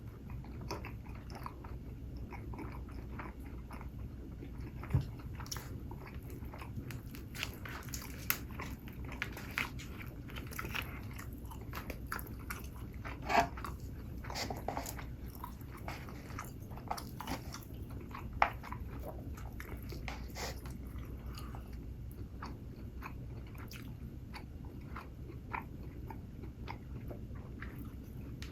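Close-miked eating: a person biting and chewing food, with scattered crunchy clicks and crackles throughout.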